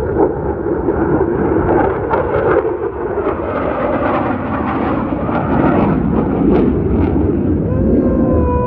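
Jet aircraft flying past, a loud, steady roar of jet engine noise.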